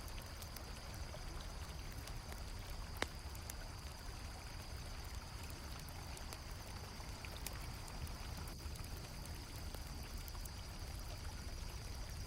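Flowing river water, a steady rushing, with campfire crackles and one sharp pop about three seconds in, under a steady high chirring of crickets.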